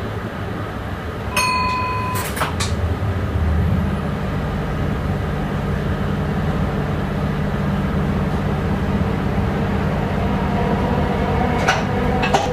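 Passenger train running, heard from inside the driver's cab: a steady rumble with a low hum that strengthens about three seconds in. A short electronic beep sounds about a second and a half in, followed by two clicks, and two more sharp clicks come near the end.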